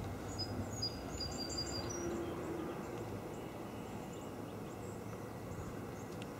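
Steady wind noise with a low rumble, typical of wind during a blowing snowstorm, with a few faint high chirps in the first two seconds.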